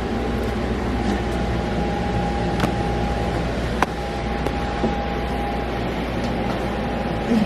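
Steady machine-like hum and hiss with a thin, constant whine, broken by two sharp clicks near the middle.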